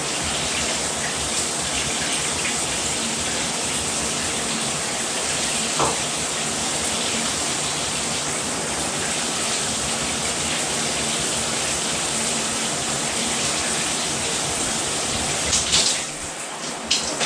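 Rainfall shower head running: a steady rush of water spray falling in a shower. About sixteen seconds in, the rush drops away and is replaced by a quieter patter of scattered splashes and drips.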